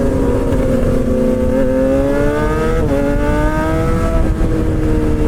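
Straight-piped inline-four of a Suzuki GSX-R600 K7, without a catalytic converter, pulling hard: the exhaust note climbs, breaks briefly at an upshift about three seconds in, climbs again, then settles to a steadier pitch near the end. A heavy wind rumble runs underneath.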